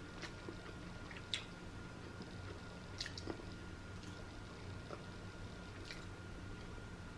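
Quiet chewing and wet lip smacks of someone eating fish with her fingers, with a few short, soft clicks scattered through.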